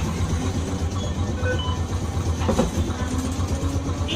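Nagasaki Electric Tramway 370-series streetcar running, heard from inside the car: a steady low rumble with a short clatter about two and a half seconds in.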